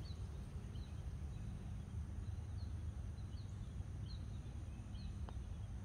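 A bird repeats a short, high, falling chirp roughly once a second over a steady low rumble, with a single faint click about five seconds in.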